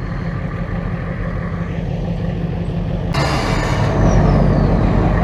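Truck engine running steadily under load while pulling a stuck vehicle out of the dirt. About three seconds in, a sudden loud hiss joins it and the engine gets louder.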